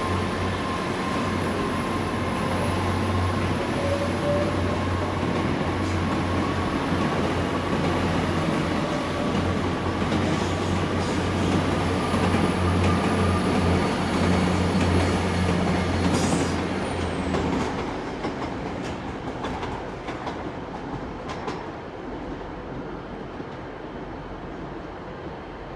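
Passenger train departing: a steady low drone with wheels clicking over the rail joints, dropping off after about 17 seconds and fading away.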